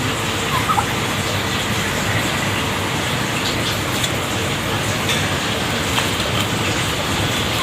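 Steady rushing noise with a few faint, short chirps about half a second in.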